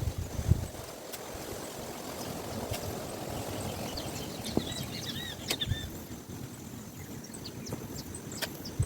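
A small hand hoe thudding into soil a few times while cuttings are planted, over a steady outdoor hiss. A bird chirps a few times in the middle.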